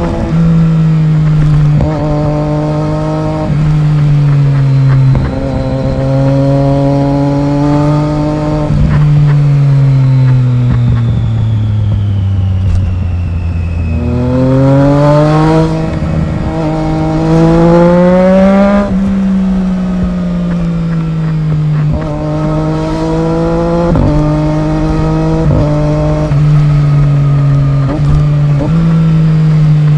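Triumph Daytona 675R's inline-triple engine through its aftermarket exhaust, loud throughout. Its pitch rises and drops in several quick steps, sinks slowly to a low note about halfway, then climbs hard in one long rise before falling again, with more quick steps near the end.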